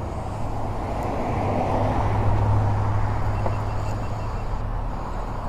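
Road traffic: a vehicle's engine and road noise building to a peak about halfway through and then easing off, as of a vehicle passing.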